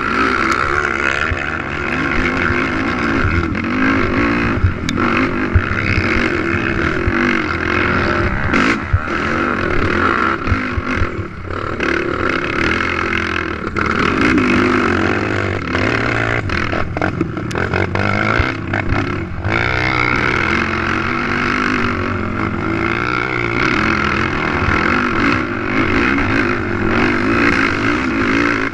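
Race ATV engine running hard, revving up and down through the gears without a break. Several sharp knocks cut in along the way, about five seconds in, around nine seconds, near eleven seconds and again near seventeen to nineteen seconds.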